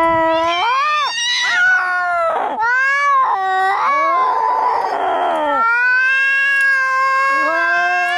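Domestic cats yowling in a fight: long, drawn-out wails that bend up and down in pitch, with a harsh hissing spit about halfway through.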